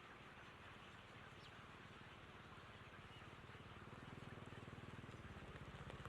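Faint engine running with an even low pulse, growing steadily louder from about halfway in.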